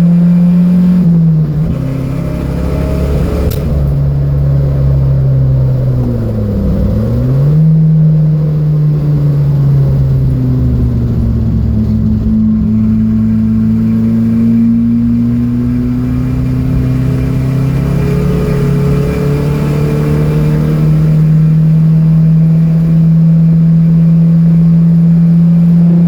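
Datsun B210's four-cylinder engine running hard at speed, its note mostly steady. The engine note drops sharply and picks back up about six to seven seconds in, then swells slightly in pitch and settles again.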